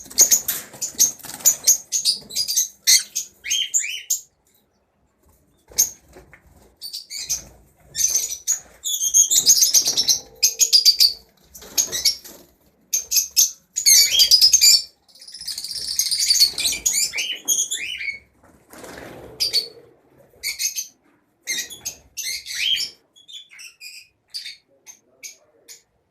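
Caged lovebirds giving shrill, harsh chirps in busy bursts, with a short lull about five seconds in.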